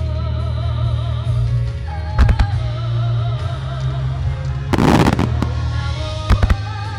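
Aerial firework shells bursting over loud show music with a strong bass and a wavering held melody: two quick bangs about two seconds in, a bigger, longer burst about five seconds in, and two more bangs near the end.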